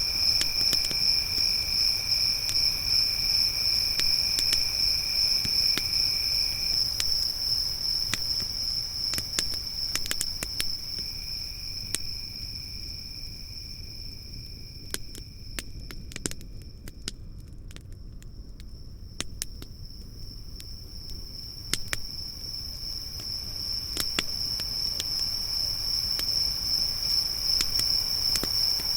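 Crickets chirping in a steady high trill, joined for a while by a second, lower-pitched cricket that drops out about a quarter of the way in. Through it a campfire crackles with scattered sharp pops. The crickets fade down in the middle and swell back toward the end.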